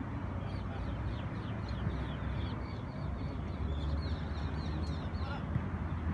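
A bird calling in a quick series of short falling chirps, about three a second, over a steady low rumble.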